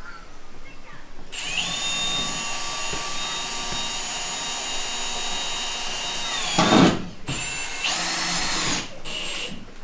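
Electric power drill running: a steady high whine for about five seconds that dips in pitch and ends in a brief louder burst of noise, then two shorter runs.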